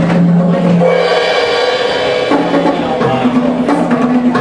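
Live drum and percussion music with steady held tones underneath that shift pitch a few times, and a few sharp strikes.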